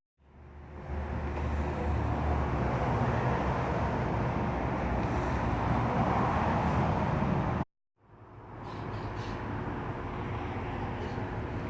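Steady outdoor background noise, a rumble and hiss of the kind distant traffic makes. It is heard in two stretches, each fading in after a sudden cut, with a brief silence between them about three-quarters of the way through.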